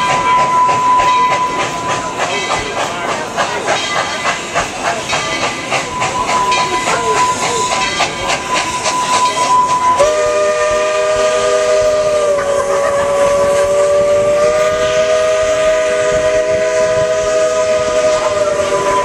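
Narrow-gauge steam train running with a quick, even clatter and a steady high ring, then a long multi-note steam whistle blast from about halfway through, held to the end with a slight waver in pitch.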